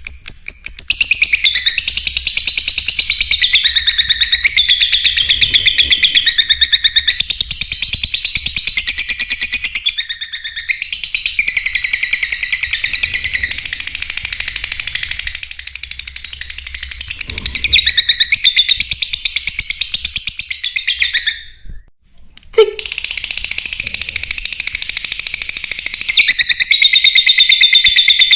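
Lovebirds chirping and chattering in a continuous stream of rapid, shrill, high-pitched calls and trills. The calling breaks off for about a second roughly three quarters of the way through, then resumes.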